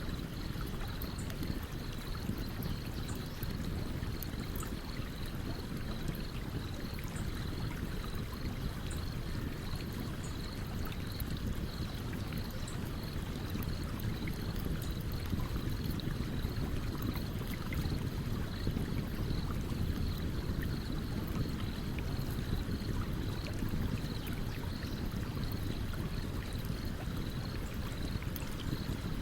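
A stream running with a steady low rush of water, with small scattered crackles and pops from a campfire on top.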